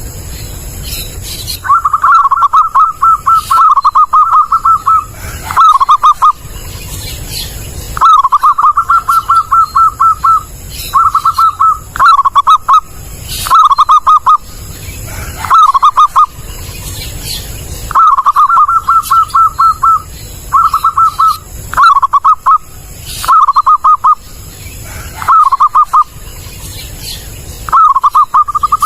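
Zebra dove (perkutut) cooing: loud phrases of quick, pulsed notes repeated every second or two, each phrase lasting from half a second to about two and a half seconds.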